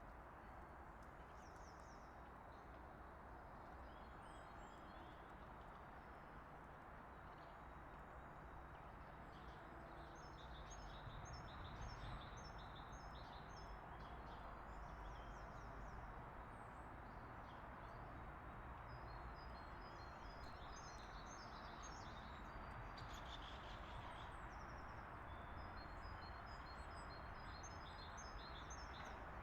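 Small songbirds chirping faintly, with several runs of quick repeated high notes, over steady outdoor background noise.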